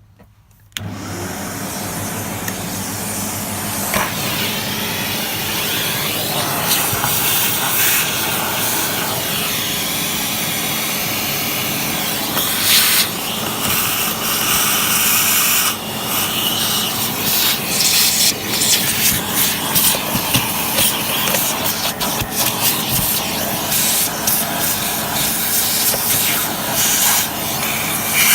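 Sebo X1 upright vacuum cleaner switched on about a second in and running, sucking up dust and dirt, its sound rising and dipping as it is worked over the mess.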